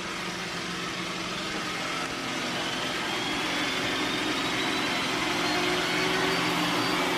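Vacuum motor of an iRobot Roomba s9+ running steadily, slowly growing louder, with a faint whine that glides up in pitch partway through.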